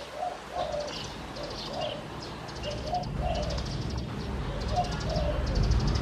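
Spotted dove cooing in short repeated phrases, with rapid high chirping from small birds above it. A low rumble builds from about halfway.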